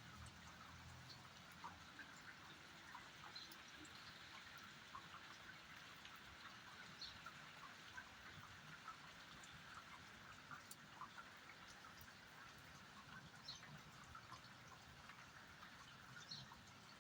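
Faint, steady light rain, with scattered single drops ticking through it.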